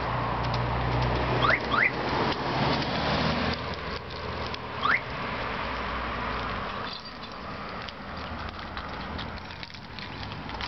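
Porsche 930 Turbo's air-cooled 3.3-litre turbocharged flat-six, fitted with an aftermarket dual exhaust, idling with a steady low hum that drops away about seven seconds in. Three short rising chirps sound over it in the first five seconds.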